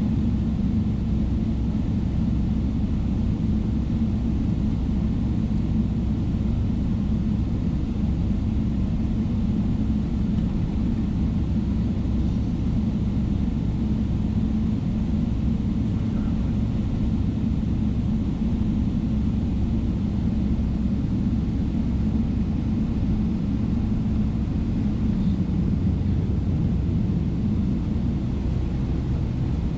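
Steady low rumble of a Boeing 777-300ER's engines and airframe, heard inside the cabin.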